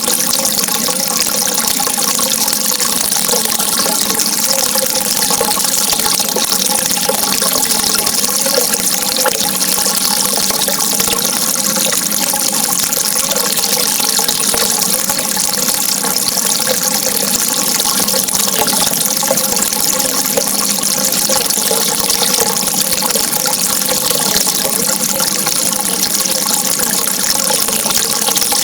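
Steady, unbroken rushing water, with faint sustained tones running underneath.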